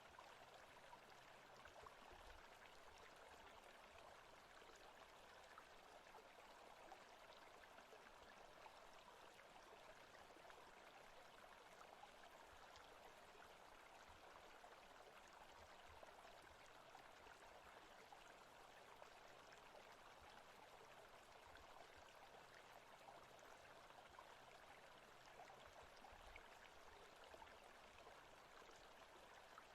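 Faint forest ambience: the steady rush of running water from a stream.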